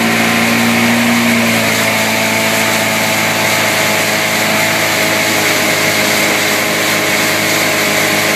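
Motorboat engine running steadily at towing speed, under a continuous rushing noise.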